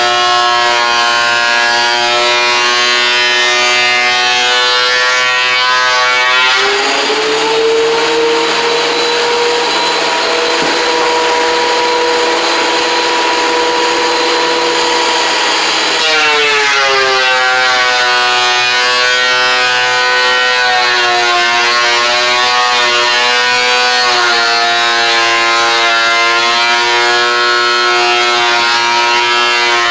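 Electric woodworking machine's motor running steadily. For a stretch from about six to sixteen seconds in the pitch steps up and the sound turns harsher and noisier, typical of stock being cut, before it settles back to the steady run.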